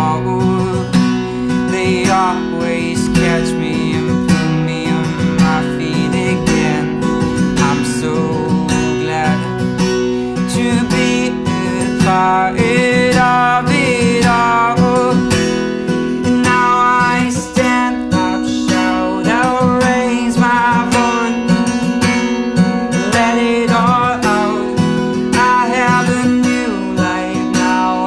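Acoustic guitar strummed steadily as the accompaniment to an indie-folk song, with a melody line wavering above it.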